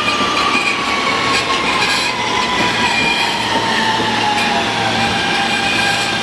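New York City subway train running through the station with a loud, steady rumble and wheel noise. Over it, a whine falls slowly in pitch, and a low hum comes in partway through.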